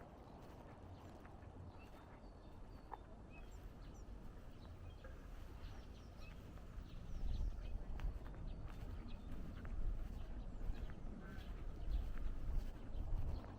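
Small birds chirping in short, scattered calls over a low outdoor rumble, with footsteps along a path.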